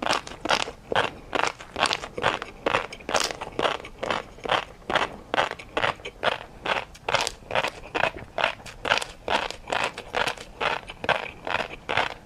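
A person chewing crunchy food close to the microphone, with a steady run of crunches at about two to three a second.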